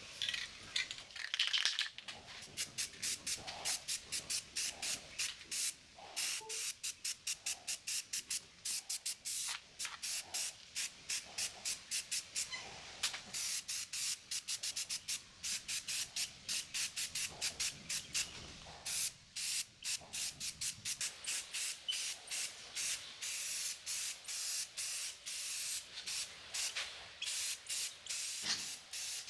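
Spray paint being applied in many short hissing bursts, roughly three a second, with a few brief pauses, laying a coat of gloss black over etch primer.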